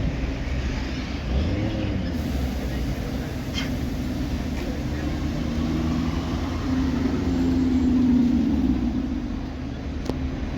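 Street traffic: car engines running and passing, with one engine note swelling to its loudest about three quarters of the way through.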